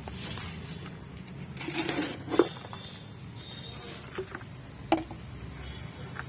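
Potting soil being scooped and poured into a plastic tub, with short hissing slides of soil and two sharp knocks against the tub, the first about two and a half seconds in.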